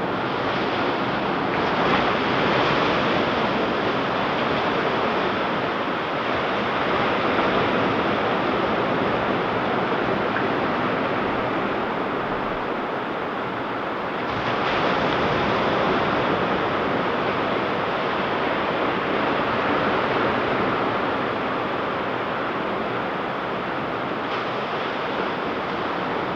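Ocean surf on a beach: a continuous rush of breaking waves, swelling louder as a wave breaks about two seconds in and again about halfway through.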